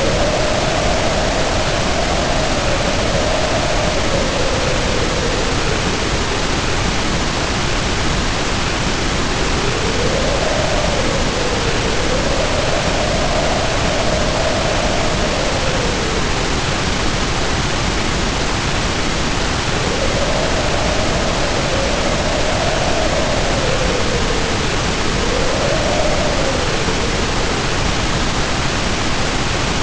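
Heavy rain pouring down in a steady, dense hiss, with wind howling over it. The howl is a wavering tone that rises and falls in spells of a few seconds, about four times, with short lulls between.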